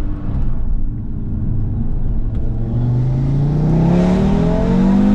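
Audi RS3 DAZA's tuned turbocharged five-cylinder engine accelerating hard under load, its note rising steadily and getting louder as it pulls through a gear.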